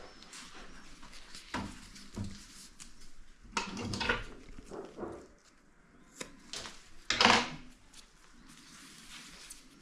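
Irregular knocks, scrapes and clatter of objects being handled during hands-on work, loudest about seven seconds in.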